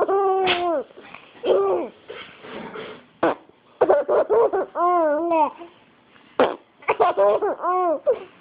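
A baby laughing in repeated bursts at a woman's silly, high-pitched vocal noises, one of them wavering up and down about five seconds in.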